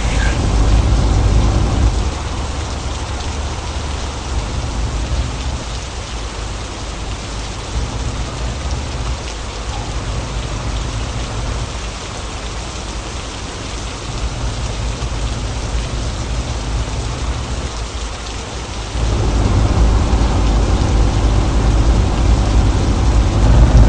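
Rain falling on a car that is driving, under a steady low rumble. The rumble drops about two seconds in and comes back louder near the end.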